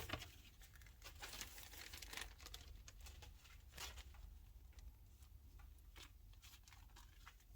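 Near silence with faint, scattered rustles and small clicks, as of small containers or packets being handled.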